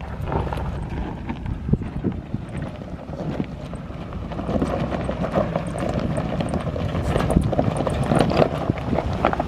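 Ford F-150 FX4 pickup crawling slowly over a rocky trail obstacle. The engine runs low and steady while rocks and gravel crunch and knock under the tyres, and the engine note rises about halfway through as it pulls.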